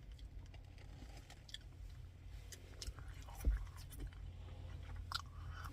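Faint chewing and mouth clicks from someone eating a burger with cheese sauce, bacon and mushrooms, with one low thump about three and a half seconds in.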